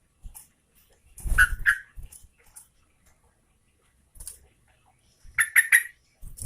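Sooty-headed bulbul calling in short, sharp notes: two about a second in, then a quick run of three about five and a half seconds in. A low bump sits under the first pair.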